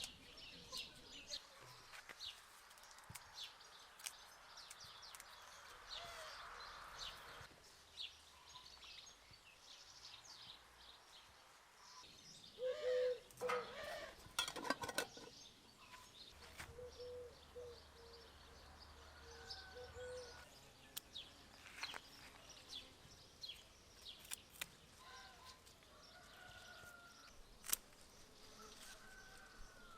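Birds chirping and calling, faint, with many short high chirps throughout and a louder brief flurry of sound near the middle.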